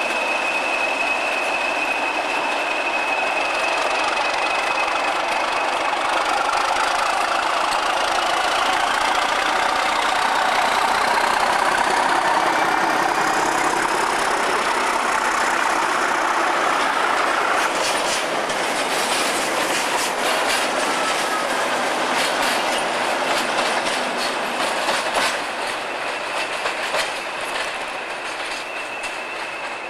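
Class 37-hauled railhead treatment train of tank wagons and a van running past close by: steel wheels squealing on the rails and clattering over rail joints in a run of sharp clicks in the second half, the sound fading as the train draws away near the end.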